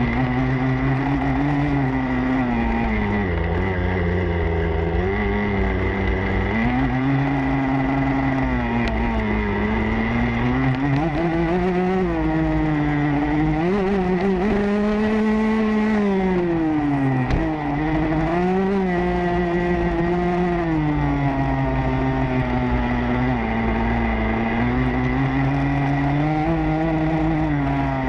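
Motocross bike engine heard from an onboard camera, revving up and falling back again and again as the throttle is worked, with a brief sharp drop in engine sound about two-thirds of the way through.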